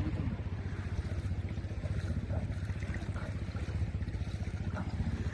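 Boat engine running steadily with a fast, even low pulse.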